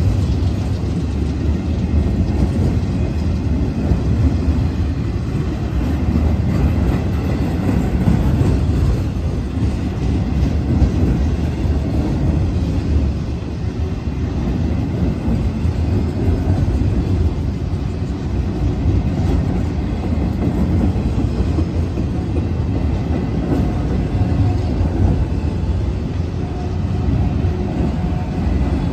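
Autorack freight cars rolling past close by: a steady, low rumble of steel wheels running on the rails.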